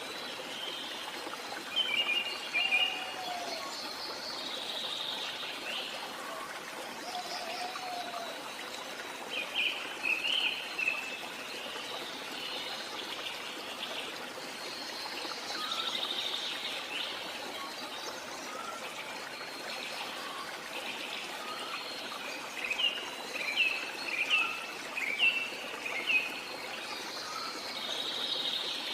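Steady rush of a jungle waterfall, with birds calling over it in short bursts of chirps: about two seconds in, about ten seconds in, and a longer run of chirps near the end.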